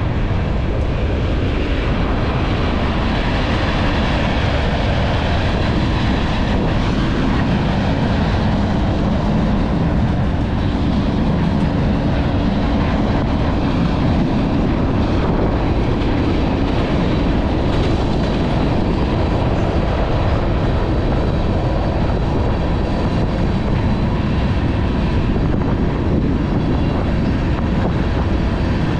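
A train running alongside, making a loud, steady rail noise heaviest in the low range.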